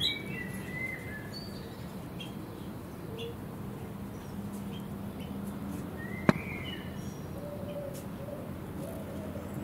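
Wild birds calling with short high chirps over a steady low hum, with a sharp click about six seconds in and low cooing calls from about seven seconds on.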